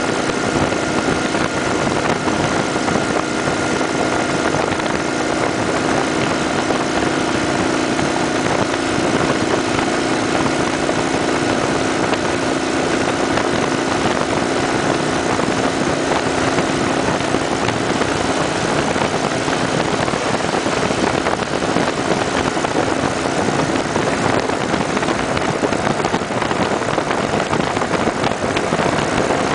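Kawasaki Vulcan 900 Custom SE V-twin motorcycle cruising at road speed: a steady rush of wind and road noise with the engine's hum underneath.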